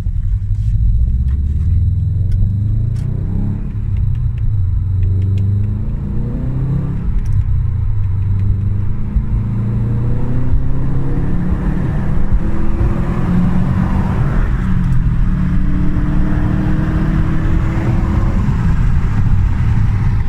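A 2015 Subaru STI's turbocharged 2.5-litre flat-four running through a muffler-deleted exhaust with a deep rumble while driving. The engine note climbs in pitch under acceleration several times and drops back between pulls, heard from inside the cabin.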